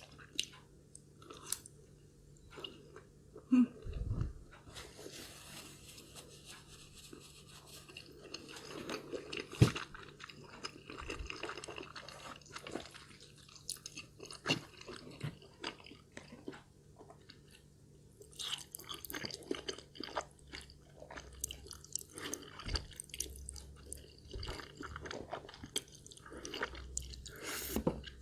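Close-miked chewing and mouth sounds of someone eating, with small wet clicks and some crunch. A few sharper knocks stand out, the loudest about ten seconds in.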